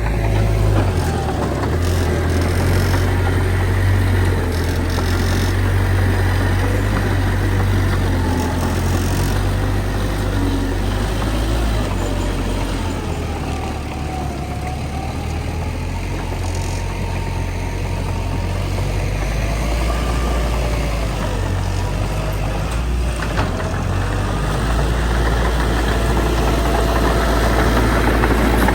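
Heavy diesel earthmoving machinery running with a deep, steady rumble, easing a little about halfway through and building again near the end. A faint wavering whine rides over the engine.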